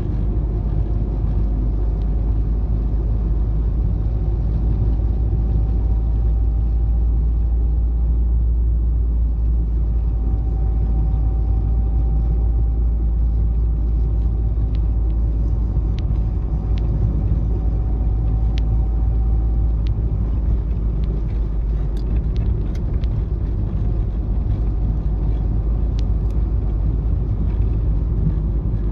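Old Renault Twingo driving along steadily: a constant low engine and road rumble, with a faint wavering whine at times and a few light ticks in the second half.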